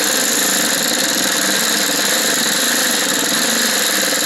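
Air impact wrench running continuously, held on without pausing, working a rusted bolt on the truck bed's floor slats.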